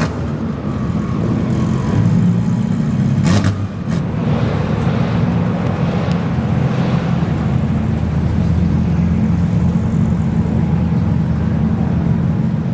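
A car engine running steadily at a low idle, with a brief knock about three and a half seconds in.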